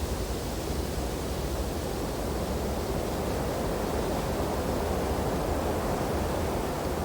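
Steady wind rushing through tree branches during a snowfall, an even low noise that swells slightly around the middle.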